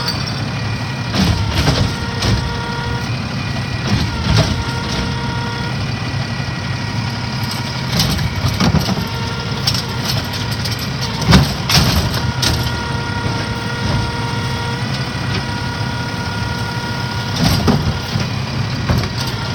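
Recycling truck running, with an engine rumble and a steady whine. Several sudden bangs and clatters break in, the loudest a little past the middle.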